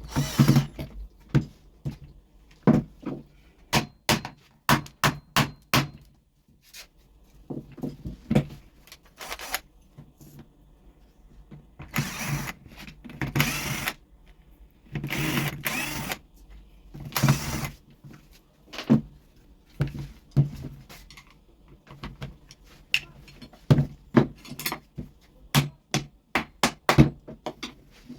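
Repeated knocks, clicks and clatter of tools and parts being handled on a workbench, with a few one-to-two-second scraping or rushing noises near the middle.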